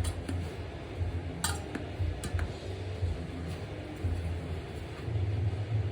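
A few light clicks and clinks as a rubber inner tube and tire are worked around a pit bike rim by hand, over a steady low rumble.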